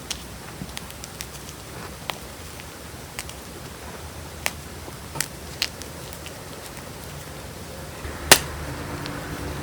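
Gym chalk crushed between fingers: scattered sharp crunches and snaps, a few seconds apart, the loudest about eight seconds in.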